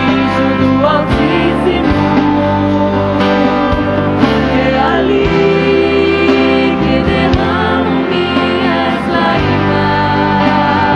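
Live gospel worship ballad: vocalists singing with band accompaniment, sustained chords over a steady bass line.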